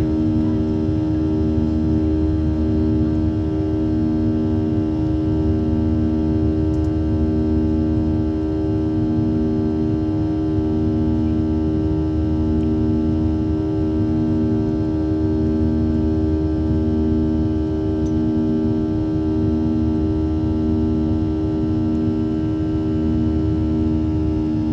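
Boeing 737 cabin during the climb after take-off: the steady drone of the jet engines over low airflow rumble, with a slow, regular throb in the engine hum about once every second and a half.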